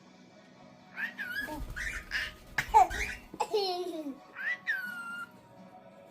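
Pet cockatiels chattering and calling in a run of short, laugh-like chirps and whistles. Several calls slide downward in pitch, and the chatter stops about five seconds in.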